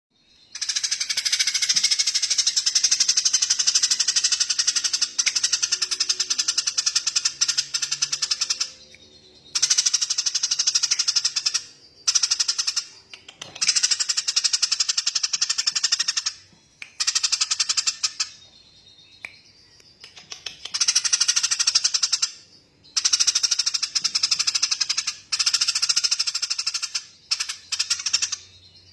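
A songbird's very rapid, rattling trill, high-pitched, given in bursts: one long run of about eight seconds, then several shorter runs of one to three seconds with brief pauses between.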